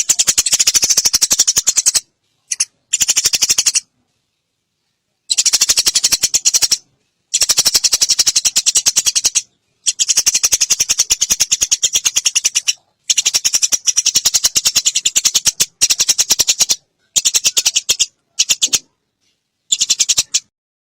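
Eurasian tree sparrows giving their fighting chatter: a rapid rattling run of notes, about a dozen a second, in bouts of one to three seconds broken by short silences.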